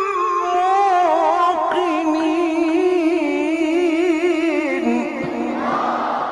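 A man's voice chanting Quranic recitation (tajwid) in one long melismatic held passage with a strong wavering vibrato. The pitch steps down about five seconds in.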